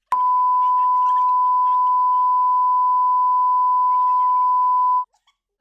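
Censor bleep: a loud, steady 1 kHz pure tone laid over a spoken answer, held for about five seconds and then cutting off sharply. Faint speech shows through beneath it.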